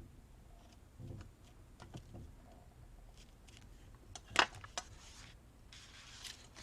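Quiet handling of paper craft materials on a work table: faint scattered ticks, then a sharp tap followed by a second one a moment later, and short rustles of paper near the end.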